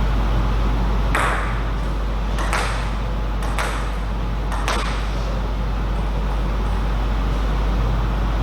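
A short table tennis rally: the celluloid ball clicks sharply off bats and table about four times, roughly a second apart, then stops about halfway through. A steady low hum lies underneath.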